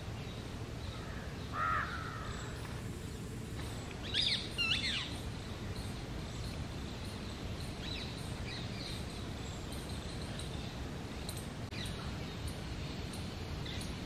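Bird calls over a steady outdoor background hiss: one short call about a second and a half in, then a louder cluster of quick sweeping calls around four to five seconds in, and faint short chirps after.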